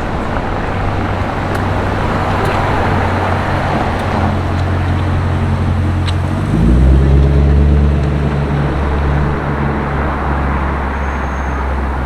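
Street traffic with car engines running close by. About halfway through, a louder, deeper engine note comes in with a short rise in pitch, then eases back into the traffic.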